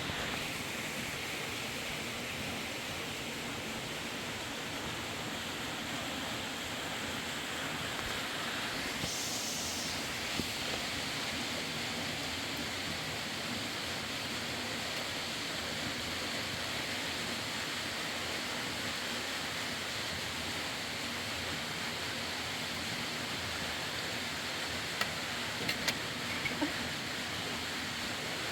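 Steady rushing of flowing water, an even unbroken noise, with a few faint clicks near the end.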